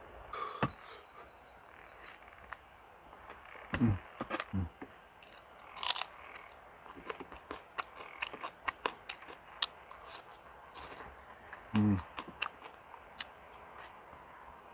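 Close-up mouth sounds of chewing and biting boiled lamb rib meat: wet smacks and clicks at an uneven pace, with two short low hums around four and twelve seconds in.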